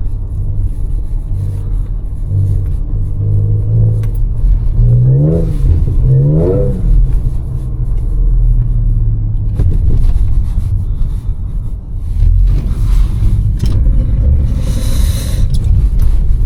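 Audi S5's supercharged V6 engine driving, a steady low drone with two quick rising revs about five and six and a half seconds in. A brief hiss comes near the end.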